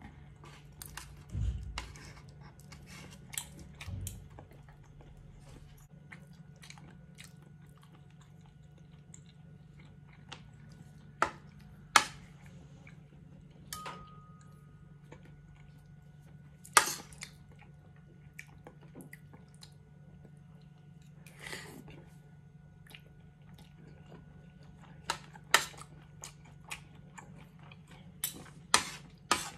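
Close-up chewing and eating of bulalo beef soup with rice, with scattered sharp clicks of a spoon and fork against a plate that come more often near the end. A steady low hum runs underneath.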